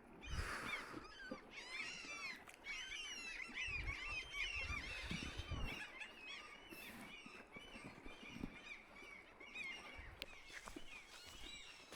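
A flock of birds calling, many short overlapping calls at once. The calls are densest in the first half and thin out toward the end.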